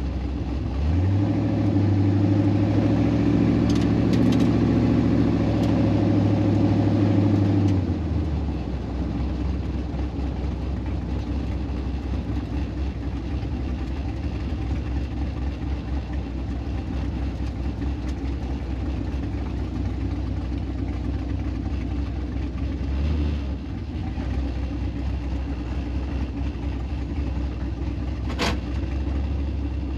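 Car engines idling with a steady low rumble. A louder engine holds a steady pitch for several seconds near the start, and there is a single sharp click near the end.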